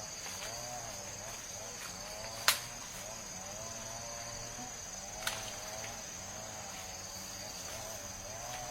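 Insects chirring in a steady high-pitched chorus, with a wavering lower-pitched call repeating beneath it. A single sharp click or knock stands out about two and a half seconds in, and a softer one comes about halfway through.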